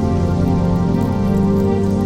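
Slow new-age ambient music of long held chords, with faint crackling of a fireplace beneath it.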